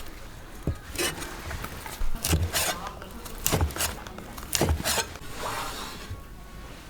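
Kitchen work on wood: several sharp knocks, each followed by a scrape, then a softer rubbing stroke near the end.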